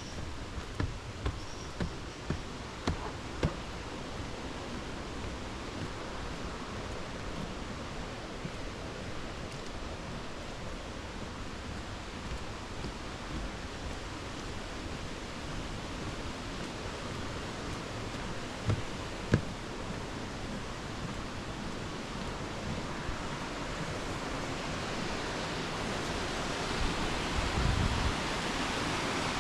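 Steady rushing of Omanawa Falls' falling water, growing louder near the end. A few short sharp clicks in the first few seconds and two more around the middle.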